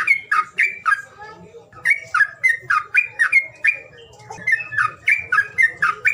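Songbird giving quick repeated call notes, about three or four a second, each sliding down in pitch, in runs with short pauses about two seconds in and about four seconds in. It is a stimulating call of the kind played to get a caged bird that is reluctant to sing to start singing.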